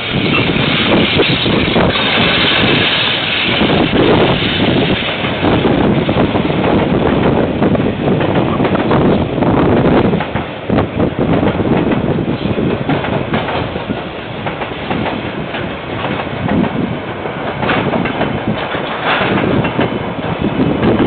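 KiwiRail train rolling past, its wagons' wheels clacking over the rail joints in a steady, continuous rumble. Heard through a security camera's microphone, which sounds thin and cuts off the highs.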